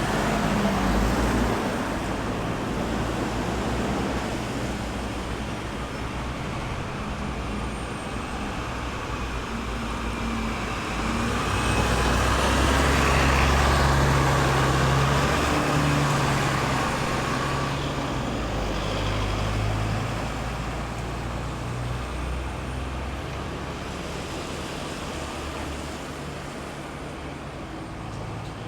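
Road traffic passing on a city roundabout: a continuous rush of tyres and engines. A louder vehicle with a low engine hum goes by about halfway through, and the traffic thins out toward the end.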